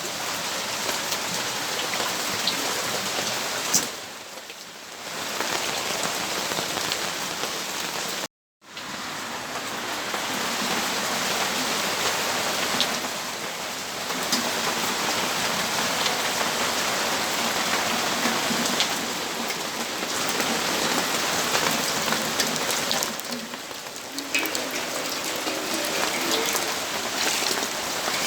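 Rain falling steadily, an even hiss of drops landing on surfaces. It eases twice for about a second and cuts out completely for a split second about eight seconds in.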